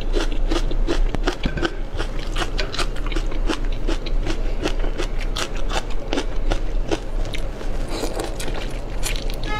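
Close-miked biting and chewing: a dense, irregular run of crunches and clicks. Near the end it comes from teeth working through a raw marinated shrimp's shell.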